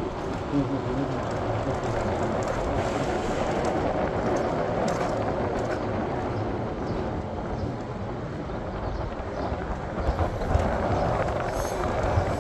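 PATH rapid-transit train running, a steady rumble of wheels on rails with a few light clicks near the end.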